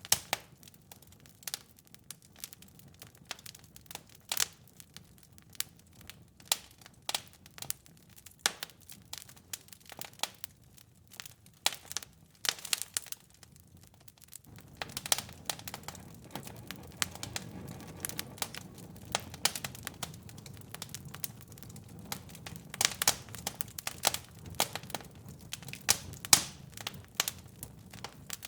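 Wood fire in a fireplace crackling, with irregular sharp pops and snaps. About halfway through, a steady low rush of the flames comes in under the pops.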